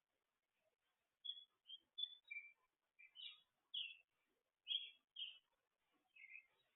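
A songbird chirping: a string of short, high, separate notes, starting about a second in and coming every few tenths of a second.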